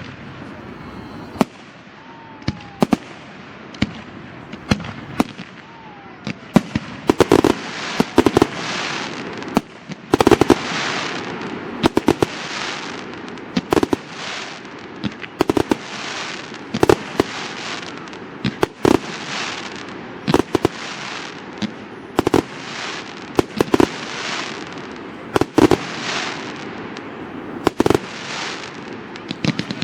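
Fireworks display: a steady run of shell bursts, sharp bangs each followed by a crackling hiss, coming thicker and faster from about seven seconds in. Two faint whistles rise early on.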